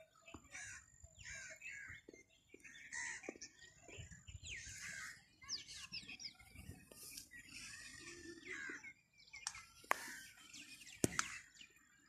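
Several birds chirping and calling, with short quick notes and sliding whistles, and two or three sharp clicks near the end.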